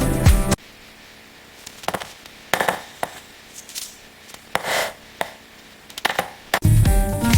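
Background music stops abruptly, leaving a quiet stretch with scattered light knocks and clicks and a brief rush of noise about four and a half seconds in; the music comes back in near the end.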